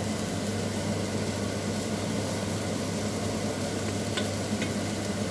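Minced boiled beef and grated carrot sizzling steadily in a nonstick frying pan while being stirred with a wooden spatula, with a couple of light ticks about four seconds in.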